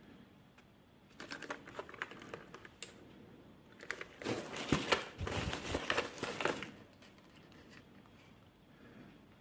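Small objects handled by hand: rapid light clicking and crinkling, a short bout about a second in and a louder, denser one from about four to nearly seven seconds in.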